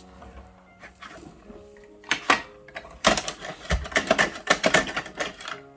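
Rapid, irregular plastic clicking and rattling from a Bruder toy garbage truck being worked by hand. There is a short burst about two seconds in, then a denser run of clicks from three seconds in until near the end.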